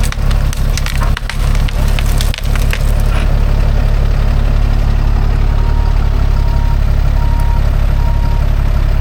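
Tree branch cracking and snapping in a quick run of sharp breaks for about three seconds as the Ram 5500 off-road wrecker pushes through it, over the steady running of the wrecker's Cummins diesel engine. Four short beeps come in the second half.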